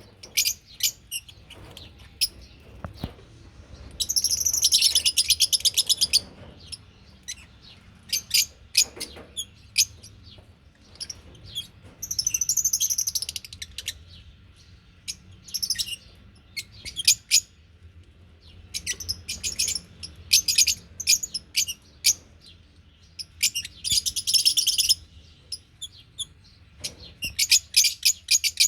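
Lovebirds chirping: a run of short, sharp, high chirps broken by several bursts of rapid chattering lasting a second or two each.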